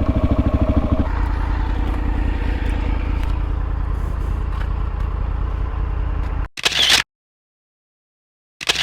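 Suzuki DR-Z400S single-cylinder engine running under way, its firing pulses plain for the first second, then a steady rush of engine and wind noise. About six and a half seconds in the sound cuts off abruptly, leaving dead silence broken by two brief bursts of noise.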